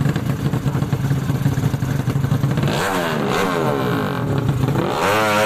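Drag-racing underbone motorcycle engines running with a rough, steady beat, then revving hard. About three seconds in the pitch rises and falls in several sweeps, and near the end another strong rise comes as a bike accelerates.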